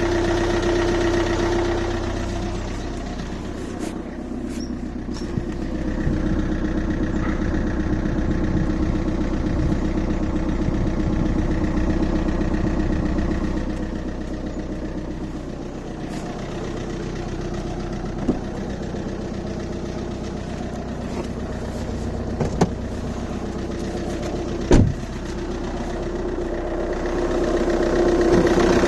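Seat Leon 2.0 TDI four-cylinder diesel idling steadily about a minute after a cold start at freezing temperature. Its level swells and fades slowly, and a few sharp clicks come late on, the loudest near the end.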